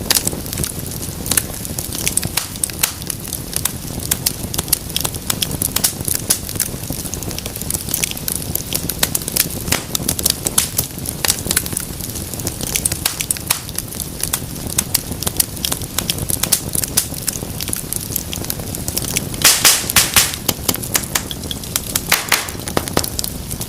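Wood fire crackling steadily, with a low rushing of the flames under frequent sharp pops and snaps, and a quick run of louder pops near the end.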